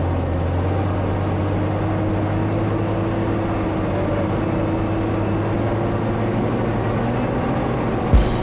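Off-road 4x4's engine running at a steady drone through deep snow, with one sharp knock near the end.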